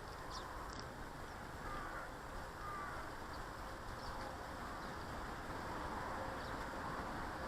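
Outdoor garden ambience: a steady background rumble with a few faint, short bird chirps and calls, mostly in the first three seconds.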